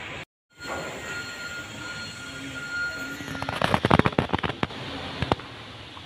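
A quick run of sharp knocks and clatter about three and a half seconds in, with one more knock a second later, after a faint steady high whine that stops just before them.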